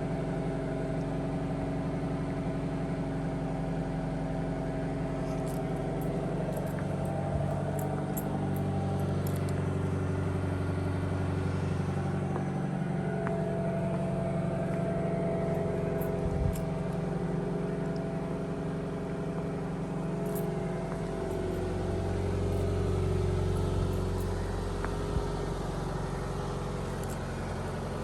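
2015 Dodge Dart GT's 2.4-litre four-cylinder engine idling steadily, still cold after a start in below-freezing air. Its low note swells and fades twice.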